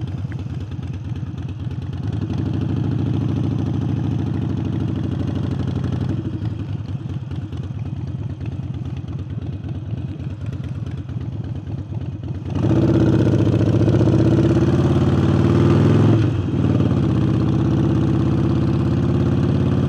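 Harley-Davidson Forty-Eight's air-cooled V-twin, fitted with a new air intake, running on the move. It steps up sharply in loudness about two-thirds of the way through as the throttle opens, dips briefly a few seconds later, then pulls steadily again.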